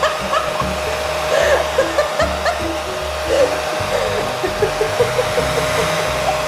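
Steady rushing air noise from a blower motor, like a hair dryer running, with background music and a stepping bass line over it.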